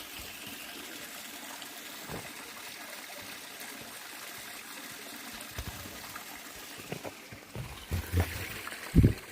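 Water trickling steadily, with a few low thumps near the end.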